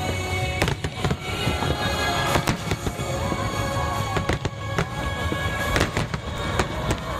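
Fireworks going off in rapid succession, many sharp bangs and crackles a second, over music played along with the show.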